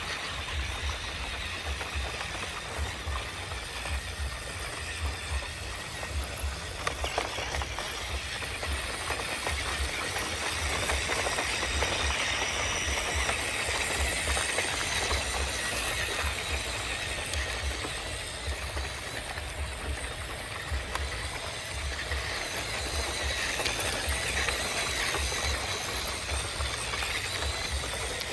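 Radio-controlled construction vehicles working: a steady mechanical whir and hiss over an uneven low rumble, with many small clicks.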